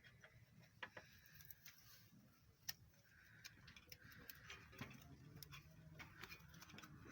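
Near silence with faint, irregular metallic clicks and taps from hand tools working the engine's valve gear during tappet clearance adjustment.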